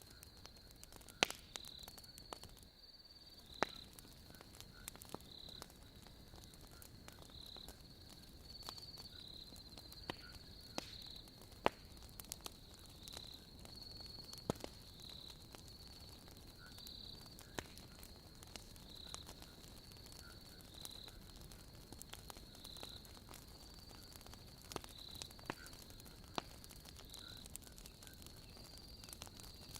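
Wood fire crackling with irregular sharp pops, over the steady chirping of crickets.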